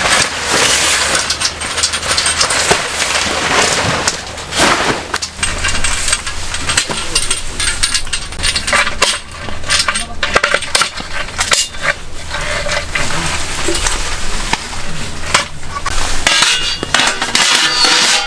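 Metal camp cookware and utensils clinking and knocking, a long string of sharp clinks over a steady hiss.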